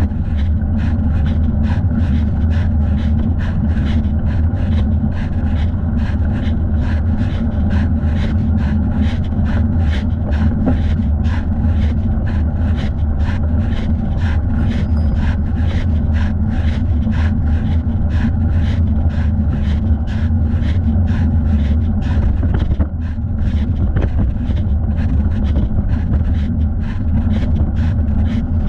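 Steady low rumble of wind buffeting the microphone and tyre noise from a bicycle being ridden, with a regular faint pulse of about two beats a second throughout.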